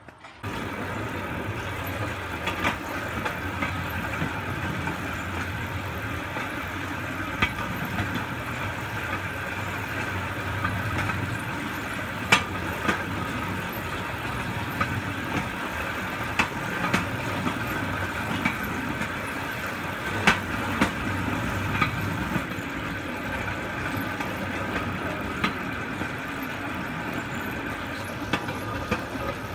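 Steel wheels of a pedal-powered rail bike rolling along railroad track: a steady rumble with a sharp click every few seconds as the wheels cross rail joints.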